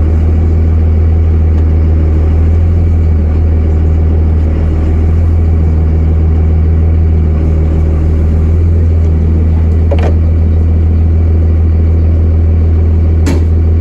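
Pickup truck engine running with a steady low drone, heard from inside the cab. Two brief sharp clicks or knocks come in the last few seconds.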